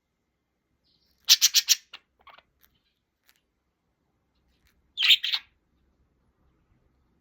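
A small pet bird chirping: a quick run of four sharp, high chirps about a second and a half in, a few faint notes after, and another short run of chirps about five seconds in.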